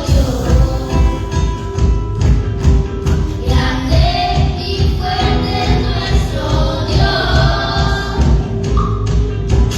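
Worship music played by a band with a steady, dense beat and heavy bass, with voices singing over it.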